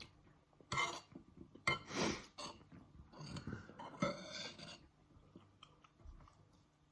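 A person chewing food close to the microphone, with four short, louder breathy mouth noises about a second apart in the first five seconds, then quieter.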